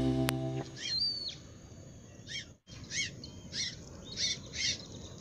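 Background music ending within the first second, then a bird calling over and over: a string of short, sharp calls, one to two a second, over a faint outdoor hiss.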